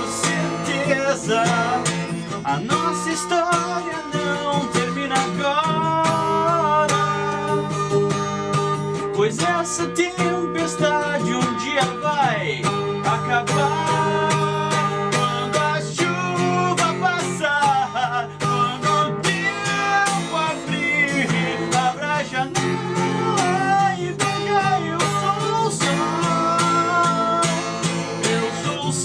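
Acoustic guitar strummed in a slow ballad, with a voice singing the melody over it.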